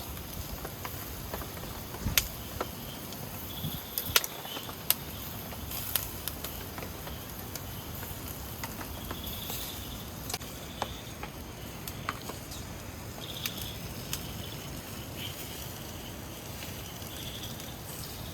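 Forest night ambience: a steady high-pitched insect chorus with chirps that come and go, and scattered sharp clicks and taps throughout.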